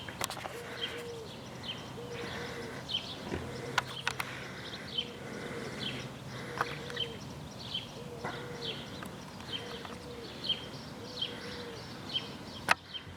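Birds chirping: short, high, falling chirps repeated about every half second, with a lower two-note call repeating about once a second alongside. A few sharp clicks stand out, around the middle and again near the end.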